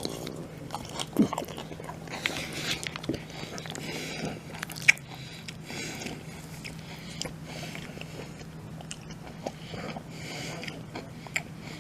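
A person chewing and biting a mouthful of poke bowl close to the microphone, with scattered small clicks and a couple of sharper ones, over a faint steady hum.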